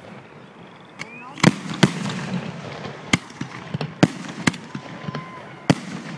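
Aerial fireworks shells going off in a display: a quick series of sharp booms, about seven in the few seconds, with a low rolling rumble trailing the loudest ones.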